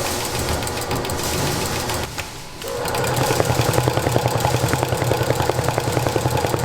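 A motor-driven machine running with a low hum and a rapid, even clatter. It drops off briefly about two seconds in, then runs on louder.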